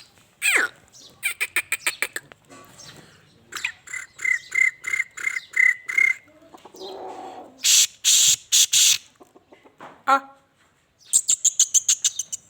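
Black francolin calling: several phrases of harsh, rapidly repeated grating notes, with a loud run of strokes about two-thirds of the way through and another quick rattling series near the end.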